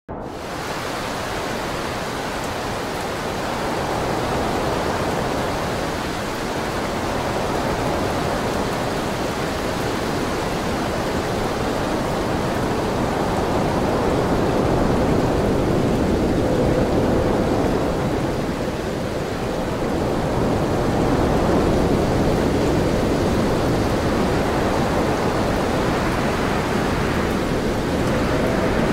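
Typhoon wind and rain: a steady rushing noise that swells and eases in slow surges every few seconds.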